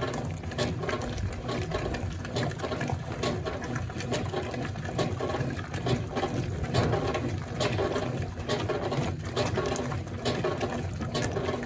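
Consul Facilite top-loading washing machine agitating a wash load: water sloshing over a low drive rumble, with irregular clicks.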